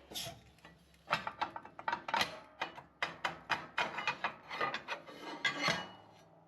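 A hand tool scraping over and over, about two or three rasping strokes a second, starting about a second in and stopping near the end.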